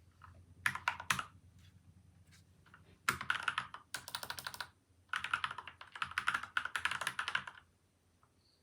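Typing on a PCL87 mechanical keyboard with lubed Gateron milky white and Outemu yellow switches, dampened with tape and foam mods: a few keystrokes, a pause, then two spells of fast typing that stop near the end.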